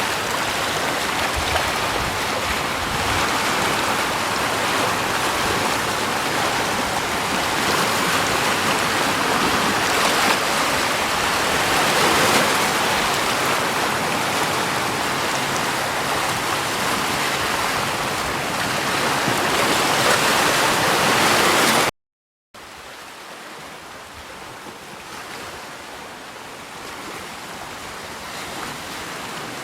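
Steady rushing water, an even noise with no distinct events. About two-thirds of the way through it cuts off for half a second, then a quieter water sound resumes and slowly grows louder.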